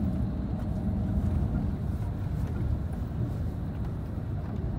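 Steady low rumble of engine and road noise inside a moving tour bus.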